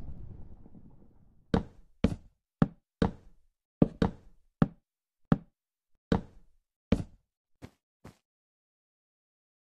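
A low noise dying away over the first second, then about a dozen sharp knocks at uneven intervals, growing fainter toward the end.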